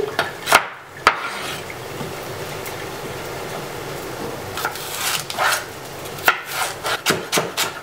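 Knife chopping celery on a wooden cutting board: two sharp chops, a few seconds of steady hiss, then a quicker run of chops near the end.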